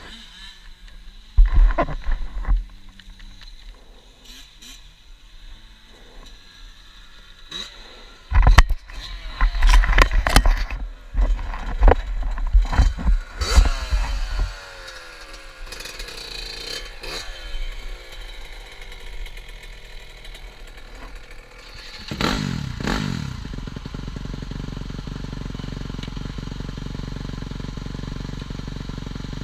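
TM Racing 250 FI motocross motorcycle engine revving in short, loud bursts with its pitch sliding up and down, then settling into a steady idle over the last several seconds.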